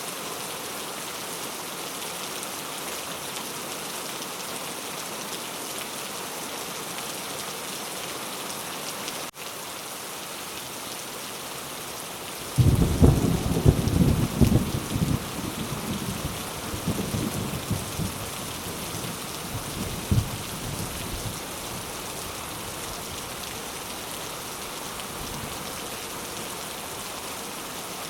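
Steady heavy rain falling. A little under halfway through, a clap of thunder breaks in suddenly and rumbles deep and low in several swells, dying away over about eight seconds.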